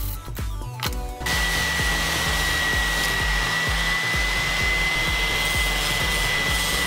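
Electric orbital palm sander running steadily with a high whine, sanding a wooden pattern; it starts about a second in, after a short stretch of the wood being rubbed by hand on a sheet of sandpaper. Background music plays underneath.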